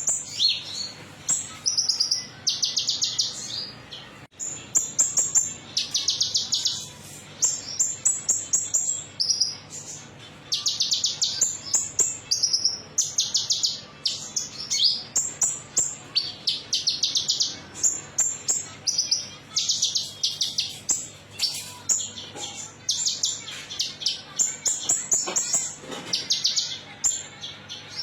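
Konin songbird singing a metallic chattering song: short, fast, high trills of ticking notes, repeated phrase after phrase with brief gaps.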